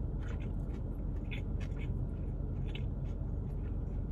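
Chewing a mouthful of crispy fried chicken sandwich: a few short, soft crunching and mouth clicks about once a second over a steady low hum.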